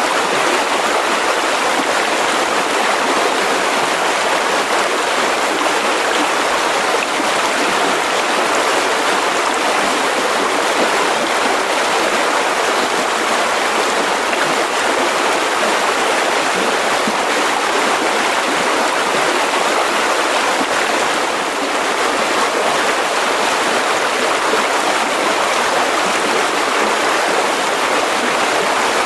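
Mountain river rushing over rocks, a steady, loud flow of water.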